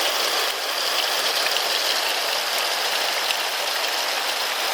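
Heavy rain falling, a steady, even hiss with faint ticks of individual drops.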